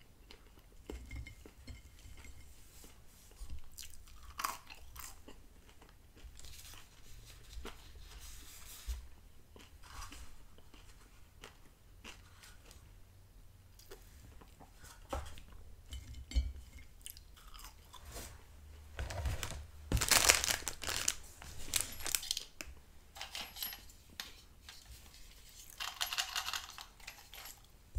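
Close-miked chewing of McDonald's french fries, with soft crunches and small mouth and handling noises. There is a louder cluster of crunching near two-thirds of the way through, and a short rustle of cardboard near the end.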